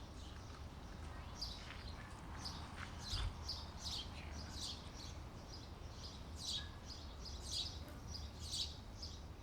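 Small birds chirping over and over: short, high chirps that sweep downward, about one or two a second, over a steady low background rumble.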